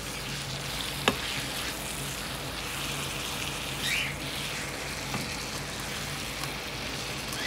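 Spice-marinated chicken pieces sizzling steadily as they are lightly browned in butter in a frying pan and stirred with a wooden spatula. There is a single sharp tap about a second in, and a steady low hum underneath.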